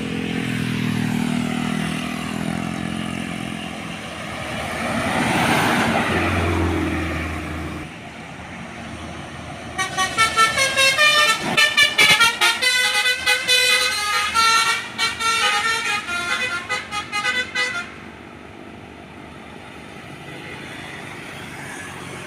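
A truck's 'basuri' musical horn playing a rapid, pulsing tune of several stacked notes for about eight seconds midway through. Before it, a vehicle's engine passes by.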